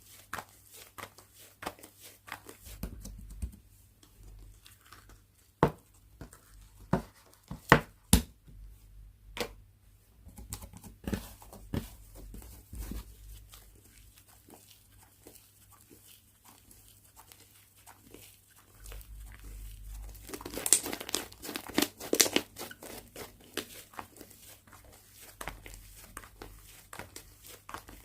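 Slime being squeezed and stretched by hand, with scattered sharp pops and clicks. About twenty seconds in there is a denser run of crackling.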